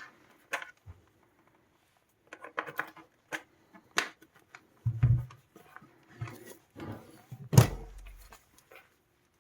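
Handling noise as a Sonos Playbar soundbar is worked on for disassembly: irregular clicks, taps and knocks of its plastic casing and tools on a work surface, with a couple of heavier thumps, the loudest about three quarters of the way through.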